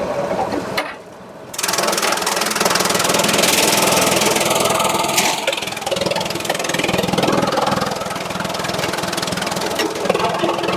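Sawmill machinery running with a steady engine hum, dropping out briefly about a second in before coming back louder.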